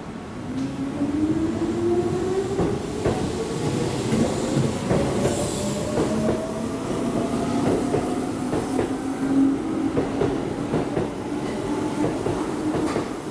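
Keihan electric train pulling away, its traction motors giving a whine that rises steadily in pitch as it speeds up, with wheels clicking over the rail joints.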